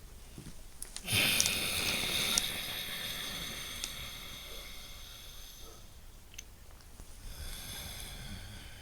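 Loud, deliberate breathing through the nose. A long breath starts suddenly about a second in and fades over several seconds, and a shorter, quieter breath follows near the end.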